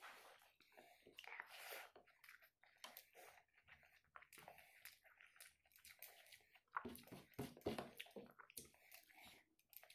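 Faint chewing of a large mouthful of rice, with wet squishing as fingers mash rice and boiled egg on a plate. Many short wet clicks and smacks, a little louder about seven seconds in.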